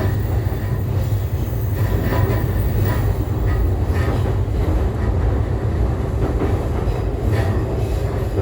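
JR East E531 series electric commuter train running along the track, heard from inside a passenger car: a steady low rumble of wheels on rail. A few clicks from rail joints and brief, faint high-pitched wheel squeals come over it.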